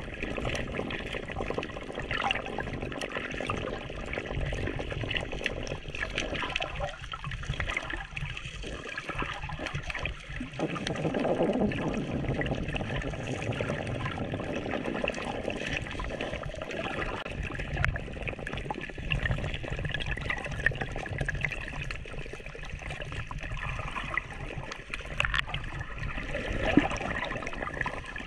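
Water running steadily, a continuous noisy rush that swells a little for a few seconds partway through.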